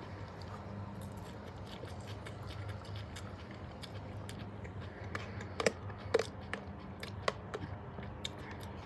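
A person chewing and eating food close to the microphone, with a few sharp clicks or crunches in the second half over a steady low hum.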